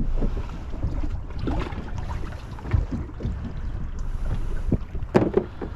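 Wind rumbling on the microphone over water slapping against a small plastic boat, with scattered short knocks and one louder short sound about five seconds in.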